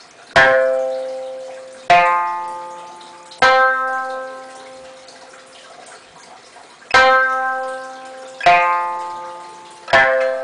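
Okinawan sanshin, an old instrument repaired and fitted with a single-layer skin head, plucked one note at a time: six notes, each ringing out and fading, about a second and a half apart with a longer pause in the middle. The tone is clean and crisp, as the single-layer skin is meant to give.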